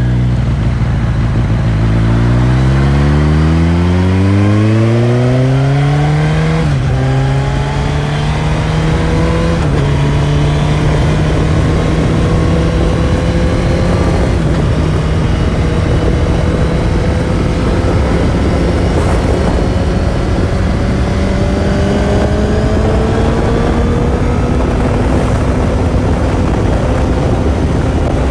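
Suzuki GSX-S1000's inline-four on its stock exhaust accelerating hard: the engine note climbs steadily, drops with an upshift about six and a half seconds in and again near ten seconds, then holds a nearly steady cruise that slowly rises again later. A steady rush of wind noise runs under it.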